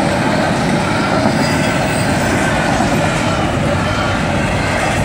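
Train rolling past at track level: a steady rumble with rapid clatter of wheels on the rails.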